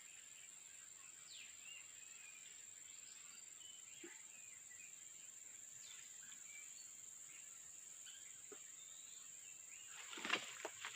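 Faint forest ambience: a steady high insect drone with scattered small bird chirps. Near the end there are a few louder rustles and knocks.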